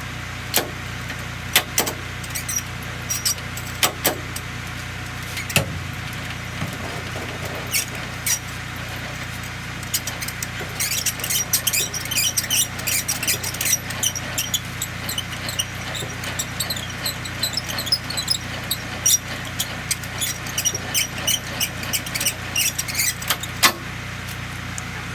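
A steady low engine hum, like a semi-truck idling, with scattered sharp clicks and knocks. From about ten seconds in there is a dense run of quick clicks and squeaks.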